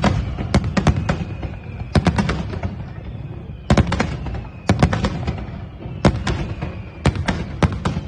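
Aerial fireworks going off in quick volleys of sharp bangs every second or so, with a faint whistle falling slowly in pitch between them.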